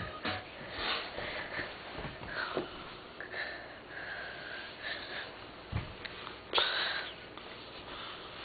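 Sniffing close to the microphone, with scattered soft rustles and a louder sniff or rustle about six and a half seconds in.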